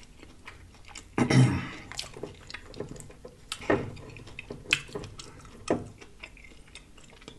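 Close-miked mouth sounds of eating: chewing with wet lip smacks and sharp clicks scattered through, and a short closed-mouth hum about a second in.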